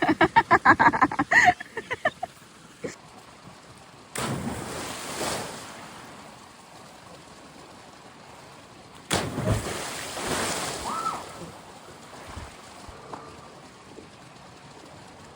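Two splashes of people jumping into a freshwater wadi pool, about five seconds apart, each a sudden rush of water that dies away over a second or two.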